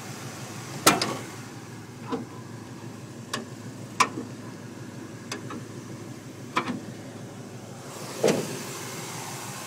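383 stroker V8 in a 1976 Chevy Nova idling steadily through a Flowmaster 40 series exhaust. About seven sharp clicks and knocks land over the idle at irregular intervals, the loudest about a second in and about four seconds in.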